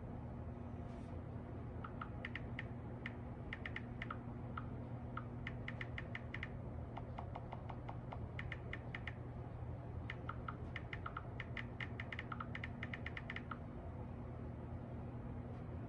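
Typing on a phone's touchscreen keyboard: quick runs of short, light key-click ticks with pauses between them, over a steady low hum.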